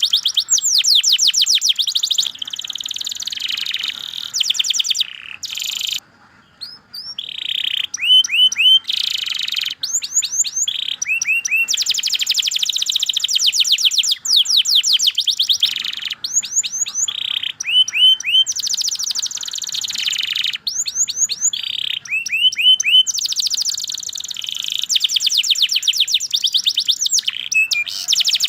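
Domestic canary singing a long, continuous song of fast trills and repeated rising chirps, with a short break about six seconds in.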